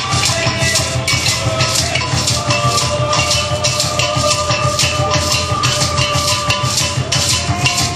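Live African drum ensemble playing a steady rhythm on hand drums with shakers. A held melodic note sounds over the drums from about two and a half seconds to seven seconds in.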